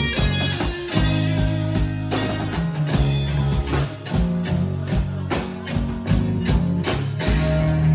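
Rock band playing: electric guitar and bass over a steady drum beat.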